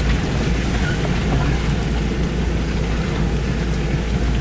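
Honda CR-V's engine and drivetrain running steadily while it drives over muddy off-road ground, heard from inside the cabin as a low, even rumble.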